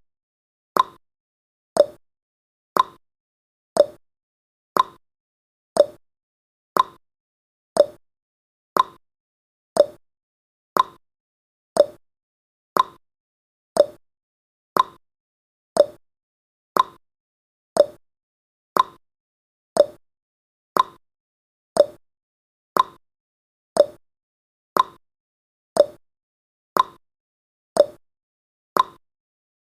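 Clock-tick sound effect of a countdown timer: one short, sharp tick each second, evenly spaced.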